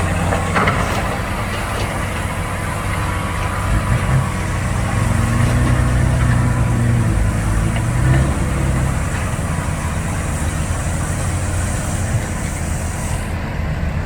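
Heavy diesel machinery engine running steadily, its low note growing stronger for a few seconds around the middle before settling back.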